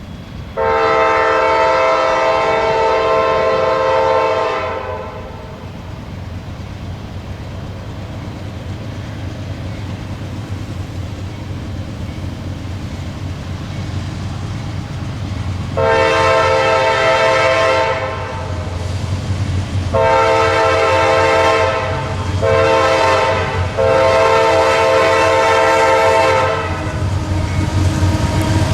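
Diesel locomotive's multi-chime air horn. It sounds one long blast, then a long, long, short, long sequence, the grade-crossing signal, over a low train rumble that grows louder as the train approaches.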